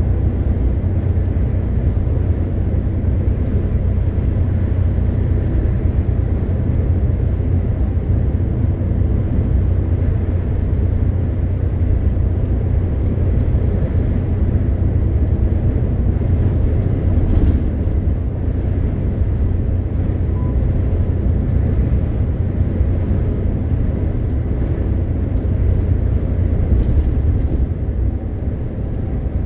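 MAN TGX 520 truck's inline-six diesel engine and road noise while driving, a steady low drone with no change in pace.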